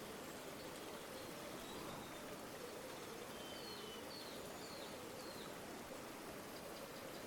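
River water flowing steadily, with a few short bird chirps partway through.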